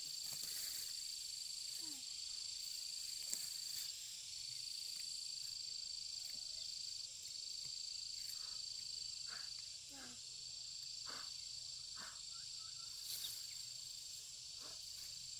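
Insects trilling in a steady high-pitched drone, broken by brief gaps every second or two, with scattered light knocks and rustles.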